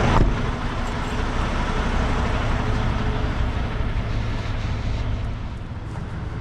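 Semi truck's diesel engine running at idle: a steady low rumble with a hiss above it that eases off slightly toward the end.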